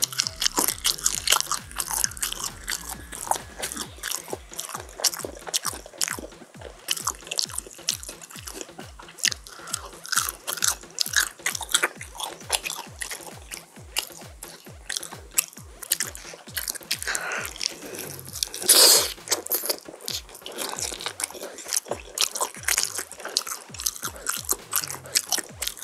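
Close-miked crunching and chewing as crispy chili-pepper-coated oven-roasted chicken is bitten and eaten, with many sharp crunches and one louder, longer crunch about three-quarters of the way through.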